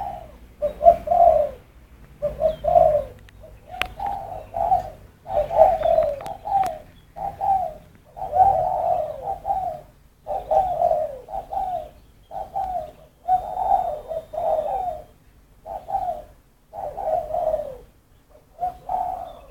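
A dove cooing in short, repeated rolling phrases, roughly one every second, with brief pauses between runs.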